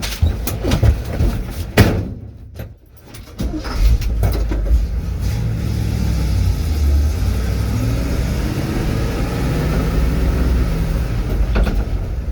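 A few knocks in the first two seconds, then about three and a half seconds in a truck engine starts and settles into a steady low idle.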